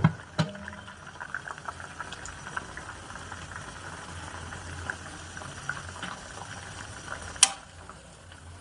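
A covered cooking pot of herbs in water boiling, with irregular small bubbling pops over a steady low hum. A sharp knock comes at the start and a sharp click about seven seconds in.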